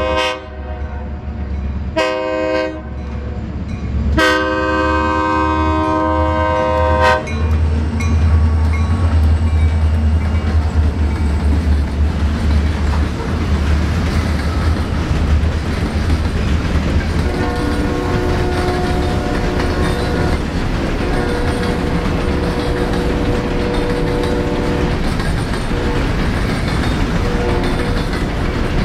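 Diesel freight locomotives sounding their horn for a grade crossing: the end of a long blast, a short blast about two seconds in, then a long blast of about three seconds. The locomotives' deep engine rumble follows as they pass, then empty coal hopper cars roll by with a steady rail noise and high steady tones that come and go in the second half.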